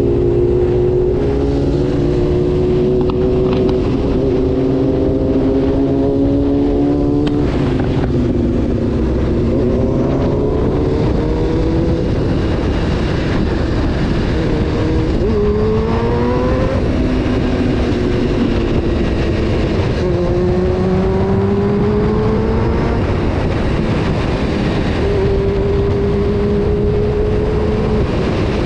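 Honda CBR 600 F4's inline-four engine under way, revving up through the gears. The engine note climbs for several seconds and then falls back at each shift, about four times.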